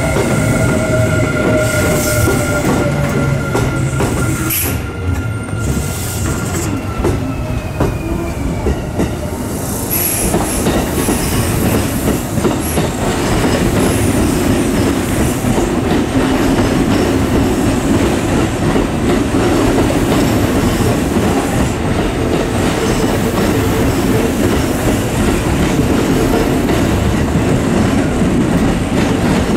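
Electric commuter train at a station: a high whine that falls slowly in pitch for the first several seconds as a train slows, then from about ten seconds in a loud, steady rumble of wheels on rail that holds to the end.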